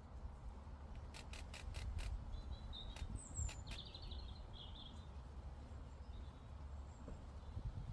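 Meadow ambience: a few short bird chirps in the middle over a steady low rumble, with a quick run of five sharp clicks just after a second in and two more clicks shortly after.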